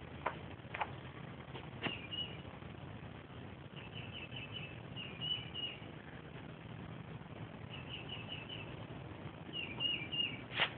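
A small bird chirping in quick runs of three or four high notes, a run every second or two, with a few sharp clicks and taps, the loudest just before the end.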